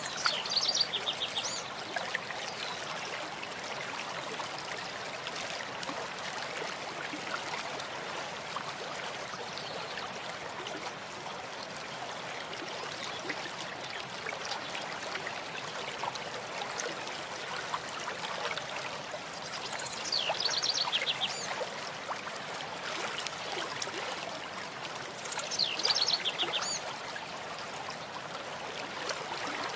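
A stream flowing with a steady rush and trickle of water. A bird calls in short, high, rapid trills a few times over it: near the start, about twenty seconds in and again about twenty-six seconds in.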